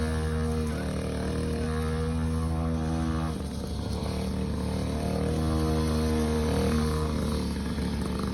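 Dirt bike engine running, its pitch stepping up and down as the revs change.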